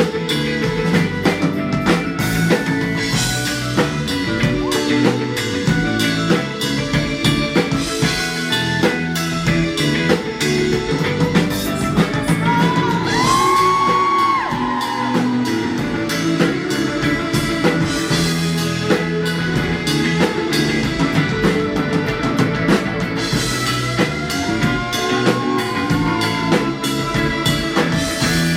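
Rock band playing live, loud and steady: drum kit and electric guitars, with a bending lead line standing out around the middle.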